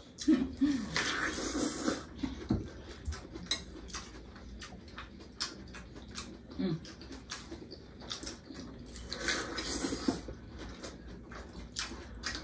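Close-up eating sounds: chewing and crunching of crisp lettuce wraps, with wet lip smacks and many small mouth clicks. Louder crunchy bites come about a second in and again around nine seconds in.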